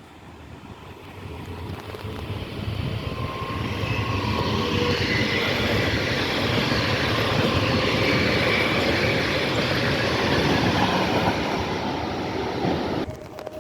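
A train passing close by, its rolling noise on the rails building over the first few seconds and holding steady, then cutting off suddenly near the end.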